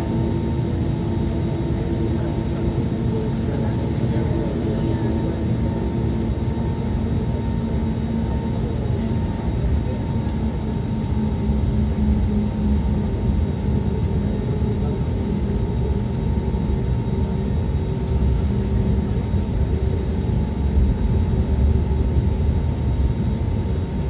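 Airbus A320neo jet engines heard from inside the passenger cabin: a steady drone with a deep rumble and a few held tones over a rushing air noise, with two faint clicks near the end.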